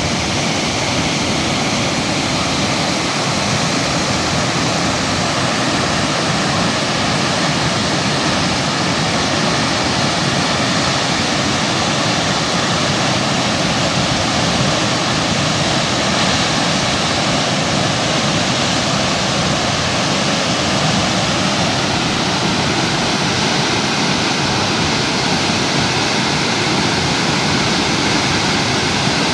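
Steady, loud rush of falling water from Thomson's Falls, an even roar that doesn't let up.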